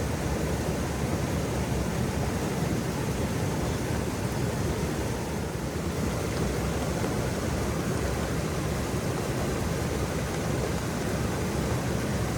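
Waterfall: a steady, even rush of falling water, heaviest in the low end, with no breaks.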